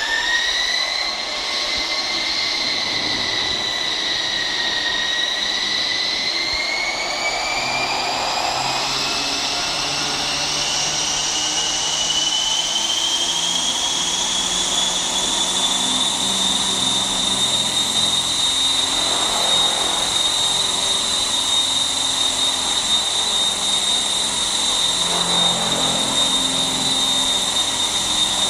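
T-REX 600 ESP radio-controlled helicopter running up to speed with a high whine. The pitch rises, dips briefly about five seconds in, then climbs again and holds steady from about sixteen seconds on.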